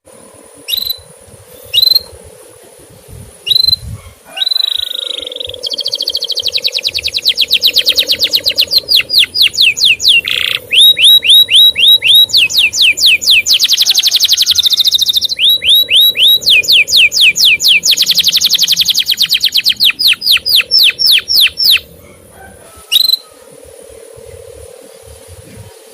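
Male canary singing: a few single chirps, then long, very fast trills of repeated notes in several phrases, then scattered chirps again near the end.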